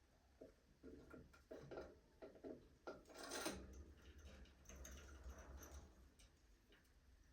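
Faint budgerigar activity: scattered soft clicks and taps, with a few quiet high chirps, and a brief louder scratchy sound about three seconds in.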